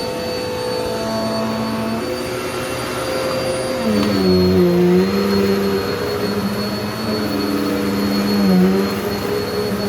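Hoover pet vacuum cleaner running continuously over a rug, a steady motor drone with a high whine; its pitch drops about four seconds in and dips briefly twice more.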